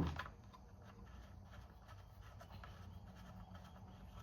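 One dull knock, then faint scratching and rubbing of hands working at the chainsaw's bar-oil filler just after it is topped up.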